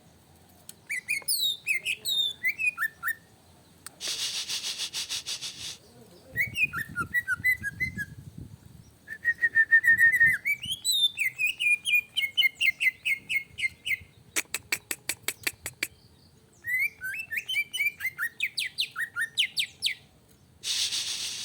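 Cucak ijo (green leafbird) in agitated song: fast varied whistled phrases and trills, broken by bursts of rapid, even rattling clicks.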